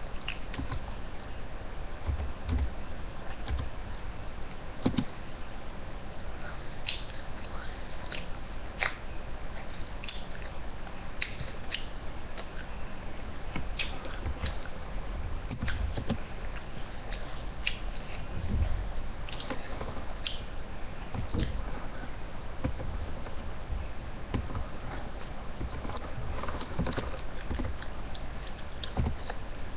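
A person biting and chewing a piece of breaded chicken close to the microphone: scattered wet smacks and clicks over a low steady hum.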